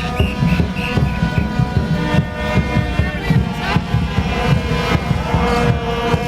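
Loud street-celebration din: several horns holding steady notes over a dense, thumping low rumble.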